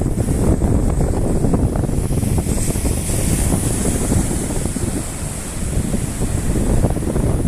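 Strong wind buffeting the microphone, a loud, churning low rumble that rises and falls with the gusts.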